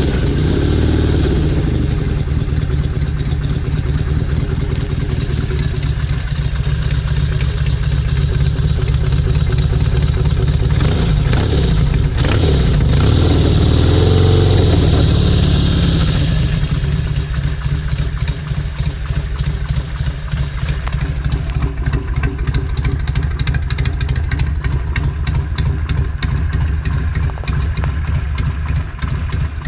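1971 Norton Commando 750's parallel-twin engine running on its first start after a full rebuild. It is revved and held higher from about ten to sixteen seconds in, then settles to a steady idle.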